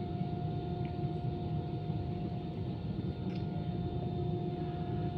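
Steady cabin noise inside an Airbus A320 on the ground before takeoff: a low, even rumble with a constant high whine.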